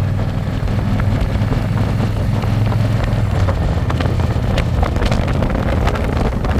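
Harley-Davidson Electra Glide's V-twin engine running steadily on the road, heard from the pillion seat with wind noise on the microphone.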